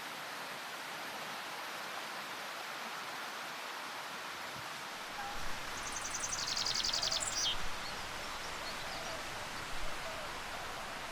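Steady rushing hiss of outdoor ambience, with a short, fast, high-pitched trill from a bird or insect about six seconds in.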